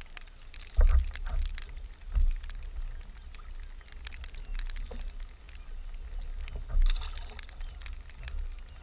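Kayak afloat at sea: water slapping against the hull with small clicks and knocks, and three heavier low thumps about one, two and seven seconds in.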